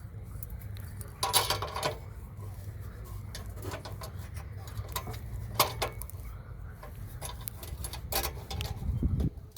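Metal clinks and clatter, a burst about a second in and a few single knocks later, over a steady low hum.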